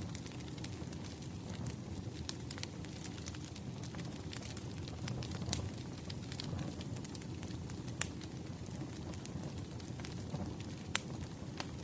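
Wood fire crackling: a steady low rumble of burning logs with scattered sharp pops and snaps, the loudest pop about eight seconds in.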